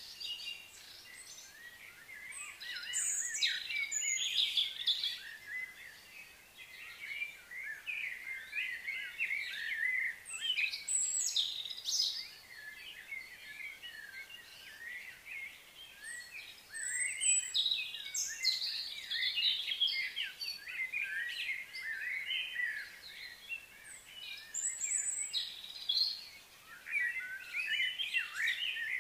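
Several birds chirping and singing over one another: a busy chorus of short high calls and quick sliding notes, rising and falling in density.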